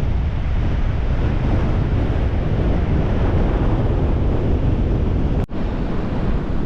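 Strong gale-force wind buffeting the microphone: a loud, steady, low rumbling noise. It cuts out for an instant about five and a half seconds in.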